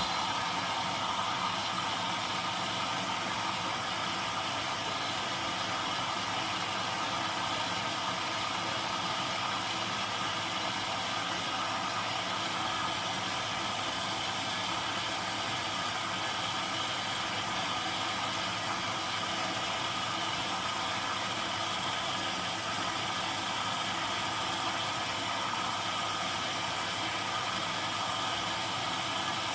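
Zanussi DL22 front-loading washing machine running steadily on a 90 °C boil-wash programme: an even machine hum with several steady tones.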